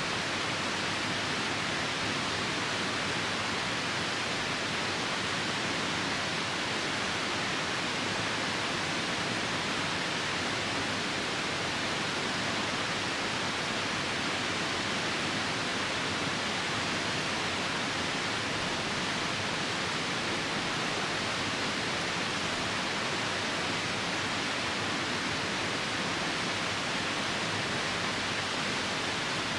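River water rushing, a steady even hiss that does not change.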